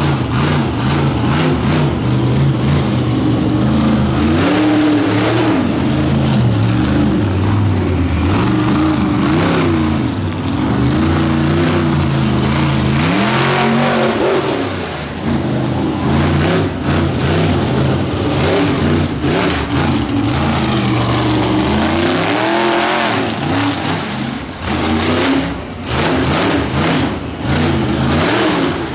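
Monster truck engine running loud and revving hard, its pitch sweeping up and falling back several times, with choppier throttle blips near the end.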